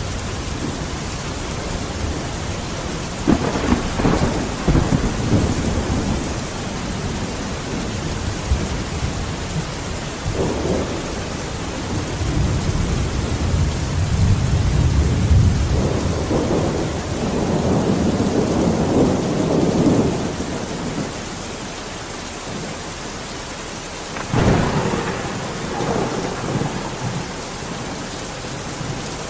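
Steady heavy rain with rolling thunder; the rumbles swell and fade several times, with sharper cracks about three seconds in and again about twenty-four seconds in.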